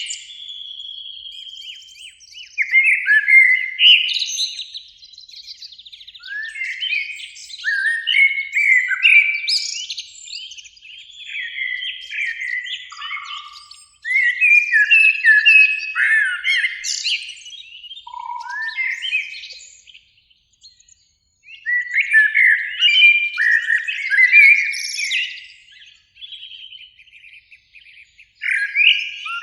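Eurasian blackbird singing: short phrases of fluting, gliding notes, separated by brief pauses.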